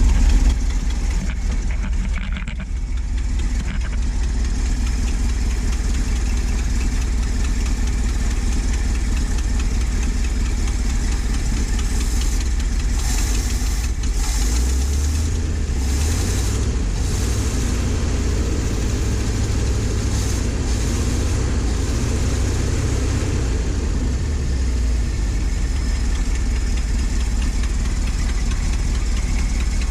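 Ford F700's 370 V8 gasoline engine idling steadily, with an exhaust manifold leak. Its low rumble grows heavier for several seconds in the middle, then settles back.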